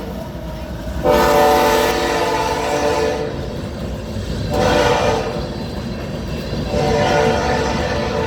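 BNSF diesel freight locomotive's air horn blowing a chord for a grade crossing: a long blast, a short one, then another long one starting near the end, the tail of the standard long-long-short-long crossing signal. A steady low rumble of the locomotive and rolling train runs underneath.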